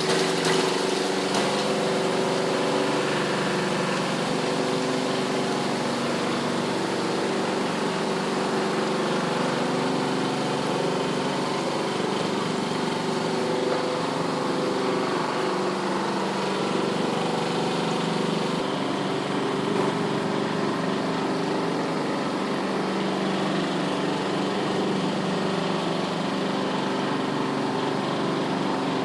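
Superbrite twin tub washing machine running steadily, its motor humming as it churns a load of washing.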